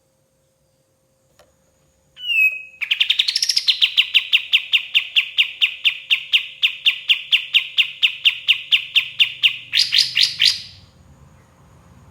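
Kapas tembak songbird singing: a few short notes, then a long, even trill of repeated notes, about five or six a second, ending in a louder, higher flurry before it stops.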